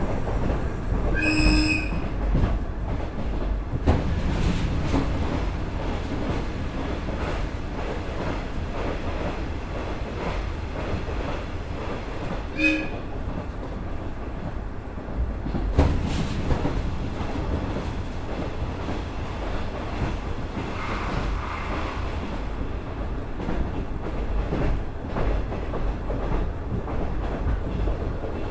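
Onboard running sound of a KiHa 110 series diesel railcar with its Cummins DMF14HZA engine: a steady rumble with wheels clacking over rail joints and a few sharp knocks. Twice a short high tone sounds, about a second in and again about twelve seconds in.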